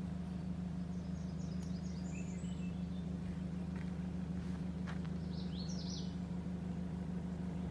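Small birds chirping in short high bursts, about two seconds in and again near six seconds, over a steady low hum.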